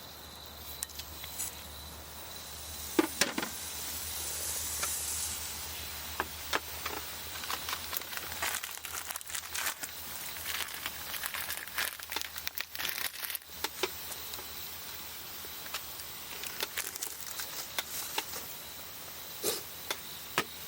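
Wood campfire crackling, with irregular sharp pops and snaps and a brief hiss a few seconds in. A thin steady high insect trill runs underneath.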